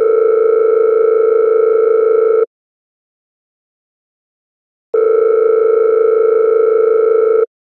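A steady electronic tone sounding twice, each lasting about two and a half seconds, with a silent gap of the same length between them.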